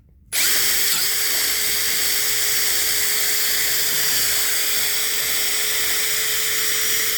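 Electric drill starting a moment in and running at a steady high speed, spinning a bit inside a brake caliper bracket's slider pin bore to clean and hone it out.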